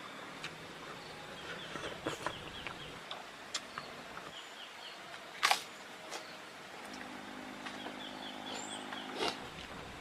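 Outdoor ambience with a bird chirping in quick series of short falling notes, over scattered small clicks. A single loud knock comes about halfway through. A low steady hum comes in for the last few seconds.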